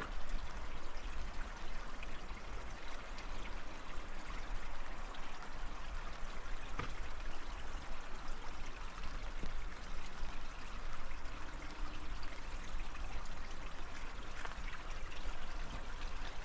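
Steady rush of running water in the rain, with scattered drip ticks.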